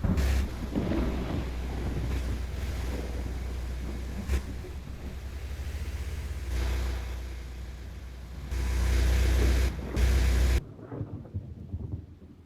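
Wind buffeting the microphone in gusts: a heavy low rumble with hiss that surges in loud blocks late on, then drops away abruptly near the end.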